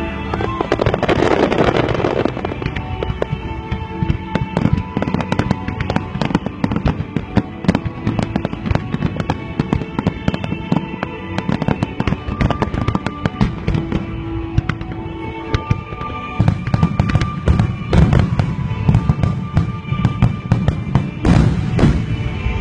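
Aerial fireworks bursting in rapid succession: sharp pops and crackles with deep booms of exploding shells, a dense crackle about a second in and heavier booms in the last seconds. Music plays underneath.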